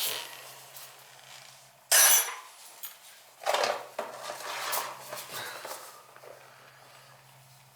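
Metal tools and burner parts clinking and clanking as they are handled, a few separate knocks and scrapes with the loudest about two seconds in, over a faint steady hum.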